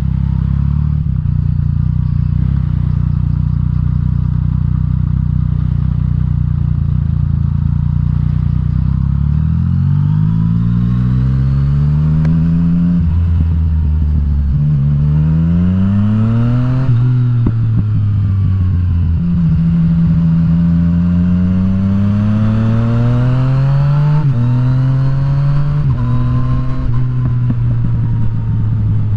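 Yamaha FZ-09's inline three-cylinder engine heard from the rider's position. It holds a steady low note for the first nine seconds or so, then pulls away, rising in pitch through several upshifts, each a rise followed by a sudden drop, before settling to steadier cruising near the end.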